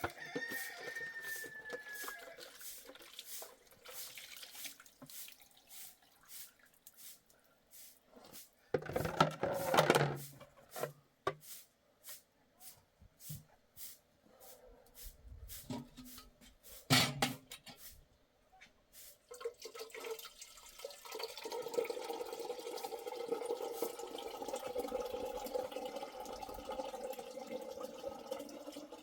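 Water dripping and splashing in irregular drops, with a couple of louder splashes. About two-thirds of the way through it gives way to a steady run of water pouring into a container.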